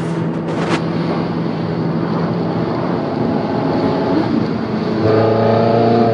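Ferrari engine running steadily while driving; the engine note changes about three seconds in, then gets louder and deeper about five seconds in.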